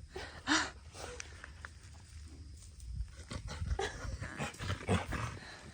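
A short animal cry about half a second in, followed by a run of small scuffling clicks and knocks.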